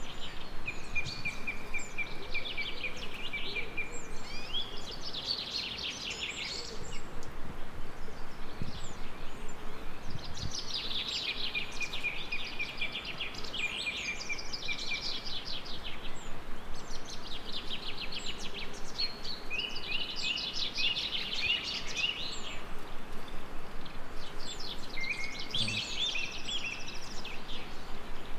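Songbirds singing in repeated phrases of rapid trills and short high notes, a new phrase every few seconds, over a steady background hiss.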